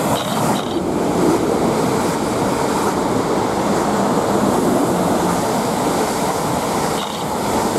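South Western Railway Class 444 Desiro electric multiple unit passing directly beneath at speed: a loud, steady rush of wheels on rail and running gear.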